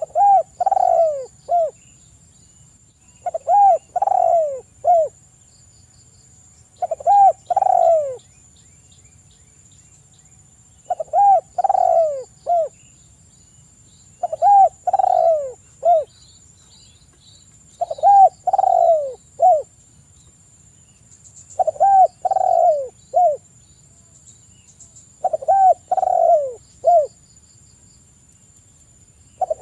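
Spotted dove (tekukur) cooing: a phrase of three or four low coos, each falling in pitch, repeated eight times about every three and a half seconds. A faint steady high whine and a few faint small-bird chirps sit behind it.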